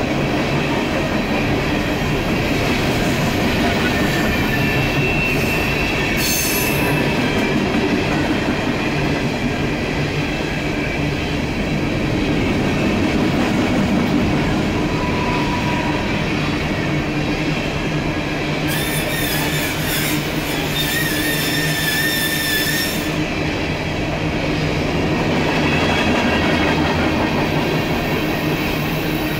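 Empty coal hopper cars of a Norfolk Southern freight train rolling past in a steady rumble with wheel clatter. High-pitched wheel squeals come in briefly about five seconds in, and again for several seconds past the midpoint.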